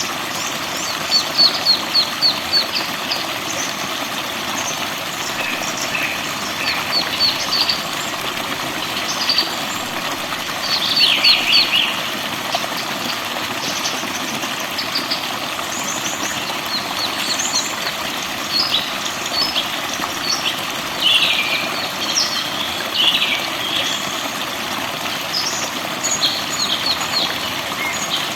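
Several forest birds singing and chirping: quick series of high notes and short falling trills, over a steady rushing noise.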